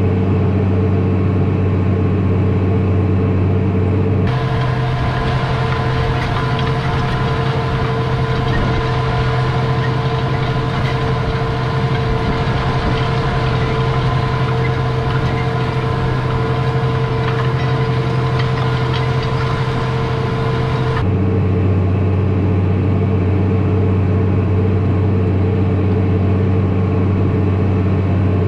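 Large farm tractor's diesel engine running steadily, a constant drone. The engine sound changes abruptly about four seconds in and again about three-quarters of the way through, as the recording cuts between takes.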